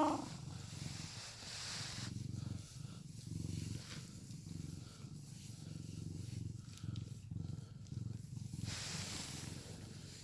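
Domestic cat purring steadily in a low, pulsing rumble while being stroked, content. Soft rustling of the hand on its fur comes and goes, most clearly near the end.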